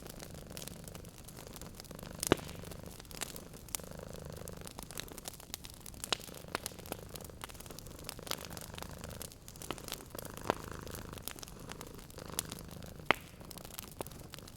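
Cat purring in slow swells that rise and fall with its breathing, under the irregular snaps and pops of a crackling wood fire. The sharpest pops come about two seconds in and again near the end.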